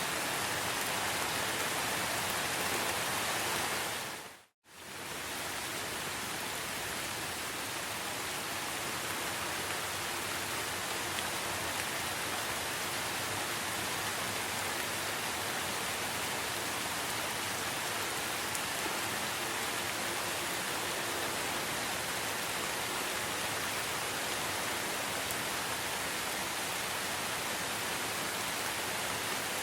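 Steady rain falling in a forest, a dense even hiss. About four and a half seconds in it fades out to silence for a moment and comes straight back.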